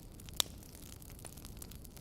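Wood fire in a fireplace crackling: one sharp pop about half a second in and scattered lighter snaps over a low steady hiss.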